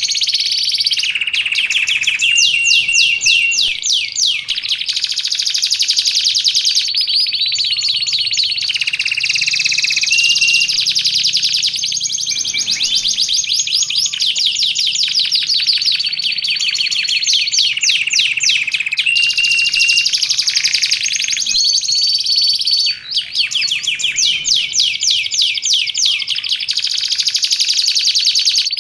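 Domestic canary singing continuously. Long rolling trills of very rapid repeated notes alternate with brief held whistled tones, some lower and some higher.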